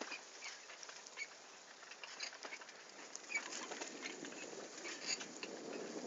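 Bicycle riding along a forest dirt track: irregular clicks, ticks and rattles from the tyres and frame over the bumpy ground, with a rushing rumble building from about halfway through.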